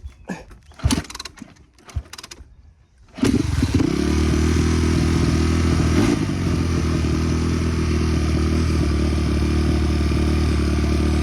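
A few clicks and knocks, then a dirt bike engine catches about three seconds in and settles into a steady idle.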